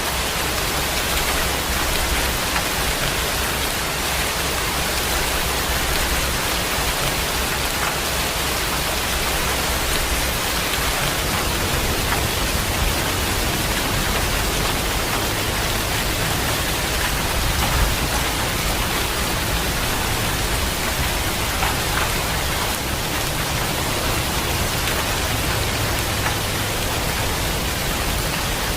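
Steady heavy rain pouring, an even dense hiss of drops, with a low rumble underneath that shifts in level.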